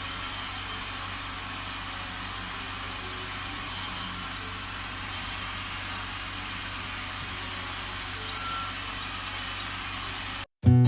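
Woodpecker U6 piezo ultrasonic dental scaler running with its vibration turned up, water spraying from the tip. It makes a steady hiss with a thin high whine that shifts in pitch about halfway through, and it cuts off shortly before the end.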